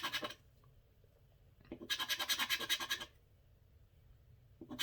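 Scratch-off lottery ticket being scratched, the latex coating scraped off in quick rhythmic strokes. There is a short burst at the start, a longer one of about a second and a half in the middle, and another starting near the end.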